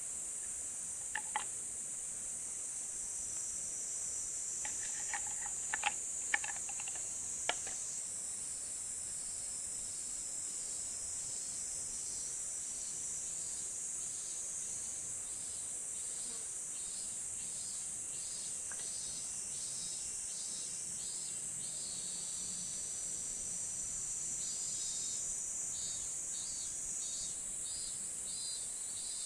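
Steady high-pitched insect chorus, with a second insect's pulsing call repeating a little over once a second from about nine seconds in. A few sharp clicks and ticks sound in the first eight seconds.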